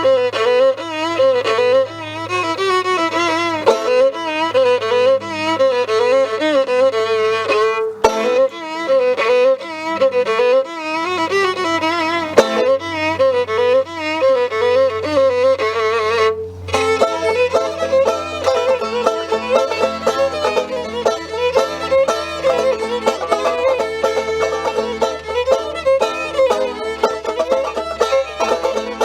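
Fiddle playing a wavering, heavily ornamented melody in a Romanian traditional tune. After a brief break a little past the middle, a plucked string instrument joins with a steady rhythmic accompaniment under the fiddle.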